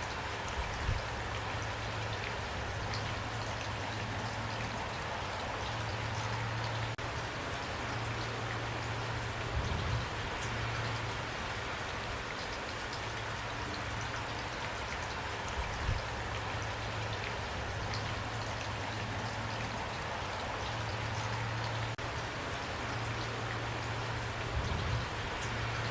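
Steady rain falling, with raindrops pattering on a surface, and a few brief low thuds.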